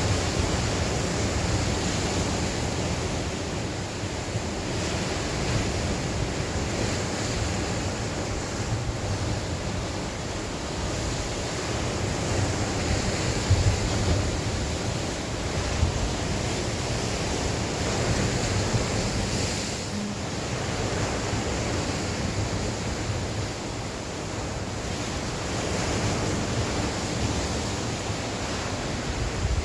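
Sea waves washing in and breaking on the shore in a continuous swelling roar, with wind gusting across the microphone.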